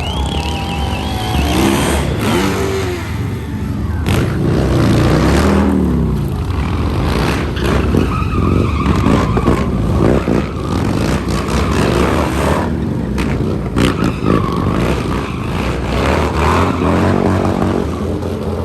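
Freestyle motocross bike engines revving hard, rising and falling in pitch several times as the riders throttle up and back off, over a constant busy background.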